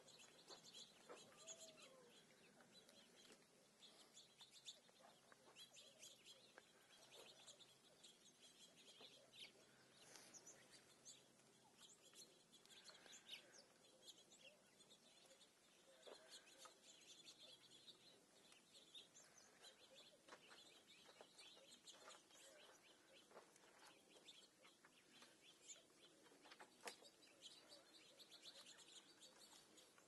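Faint, scattered chirps from a flock of small ground-feeding birds, with a few light sharp clicks, the strongest near the end.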